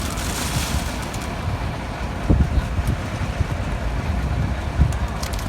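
Ford 6600 tractor's diesel engine running steadily, with a couple of louder knocks about two and five seconds in.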